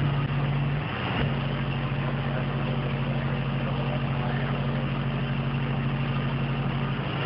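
Car audio subwoofers playing a steady, loud low bass tone, with a short break about a second in.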